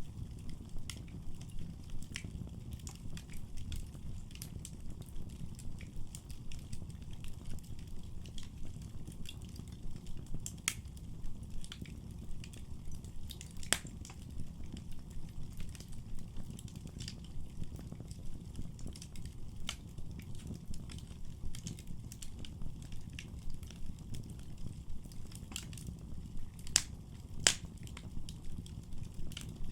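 Wood fire burning in a fireplace: a steady low rumble of flames with frequent sharp crackles and pops from the burning logs, a few louder pops near the end.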